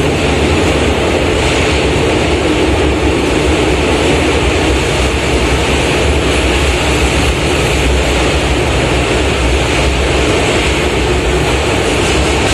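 Steady running noise inside a Keisei 3700 series commuter train car travelling through a tunnel: a loud low rumble of wheels on rails with a constant hiss.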